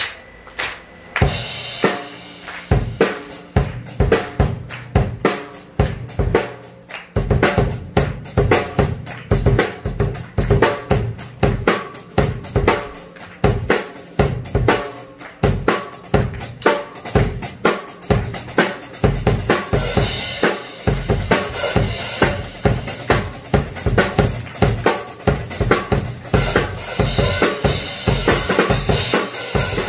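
Drum kit solo played live with no backing music: bass drum, snare and cymbals in a running beat. It starts lighter and becomes fuller and busier about seven seconds in, with the cymbals brighter near the end.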